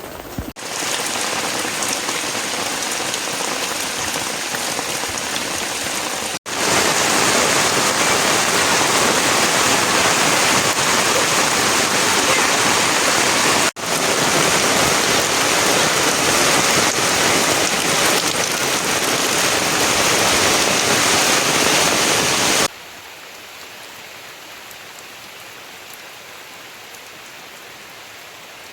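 Heavy rain falling as a steady, even hiss. It comes in several stretches separated by sudden cuts: louder through the middle, then dropping abruptly to a much quieter rain hiss about 23 seconds in.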